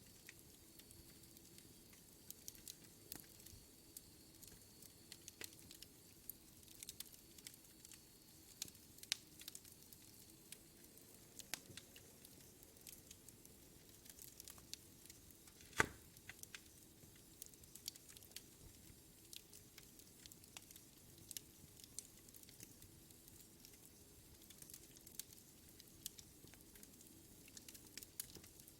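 Wood fire in a fireplace crackling: irregular sharp pops and snaps over a faint hiss, with one louder pop about halfway through.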